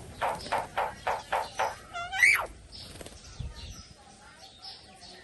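A bird calling: a run of quick repeated notes, about four a second, then one loud call about two seconds in that rises and then drops sharply, followed by softer high chirps.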